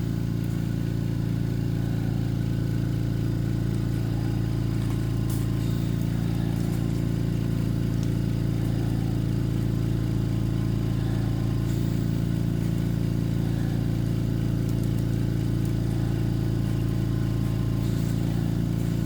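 An engine idling steadily: a low, even hum that does not change, with a few faint clicks.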